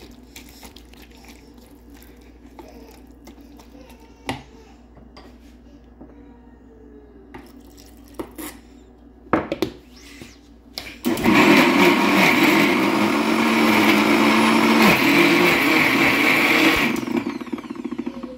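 A few scattered knocks and clicks, then a 650 W Vidiem Vision Blue mixer grinder runs for about six seconds, grinding chutney in its jar, before it is switched off and winds down.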